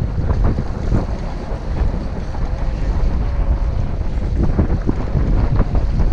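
Wind buffeting the microphone aboard a sailboat under way, a steady loud rumble, with water rushing and slapping along the hull.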